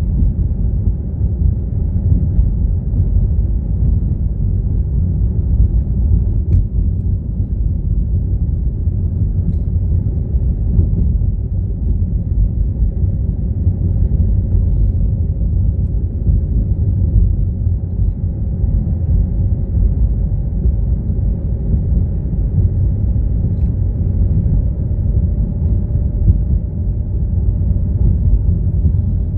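Car driving along: a steady low rumble of road and engine noise, with a faint steady hum above it.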